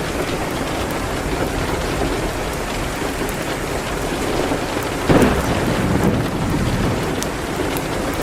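Steady heavy rain with a few faint crackles from a wood fire. About five seconds in there is a sudden loud crack that rumbles for about a second.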